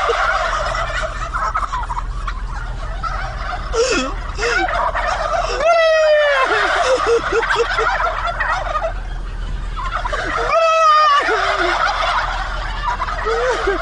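Turkey-style gobbling calls, twice, about five seconds apart. Between them runs a steady chatter of higher, quavering calls.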